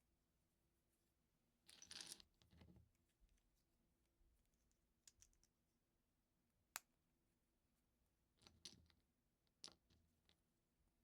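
LEGO pieces being handled and pressed together: a short clatter of plastic pieces about two seconds in, then a few single sharp clicks later on.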